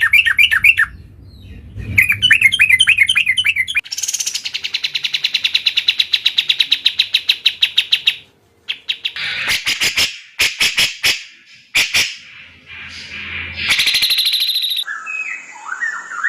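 Bulbuls singing and calling: repeated chirping phrases at first, then a long, rapid trill, then a string of sharp, short notes, another brief trill and lower warbling notes near the end.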